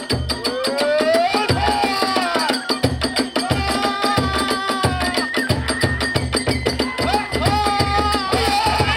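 Kagura ensemble music: a bamboo flute plays a sliding melody over steady strokes of a large drum, which come faster about halfway through, with a rapid clatter of small hand cymbals throughout.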